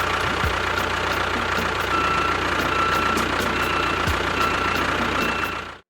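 Engine running steadily at idle, with a faint regular ticking; it cuts off suddenly near the end.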